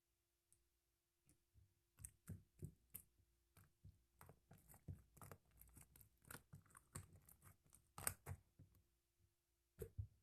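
Marbled slime being squished and pressed by hand: a quick run of small wet clicks and pops starting about two seconds in, then two more near the end.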